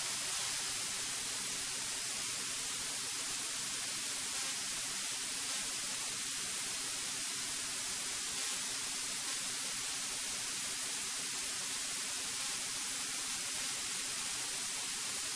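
Steady electronic hiss from the cockpit intercom audio feed, with only a faint low hum under it.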